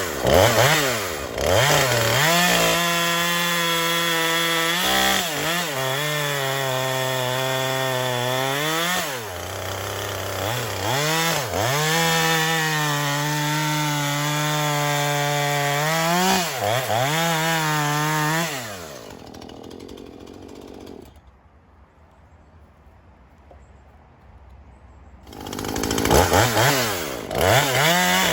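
Husqvarna 135 Mk II 38cc two-stroke chainsaw on a test run, revving up and holding at high speed for several seconds at a time, then dropping back between bursts. There is a quieter lull about two-thirds of the way through before it revs up again near the end.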